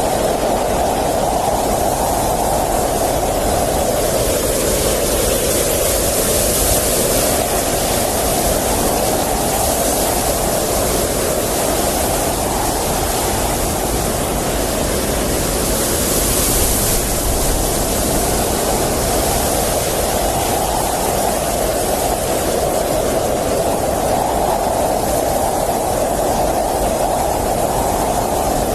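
Blizzard wind blowing hard and steadily, a dense rushing noise with a howl that rises and falls in slow gusts every few seconds. Higher hissing gusts come through briefly about 7 and 16 seconds in.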